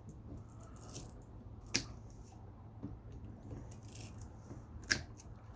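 Wire-cutter pliers snipping through copper wire: two sharp snips about three seconds apart, with a softer click about a second in.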